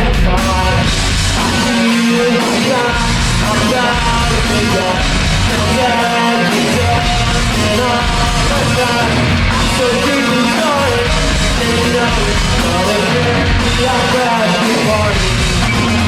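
Rock band playing live and loud: distorted electric guitars, bass and drums with a singer's voice over the top.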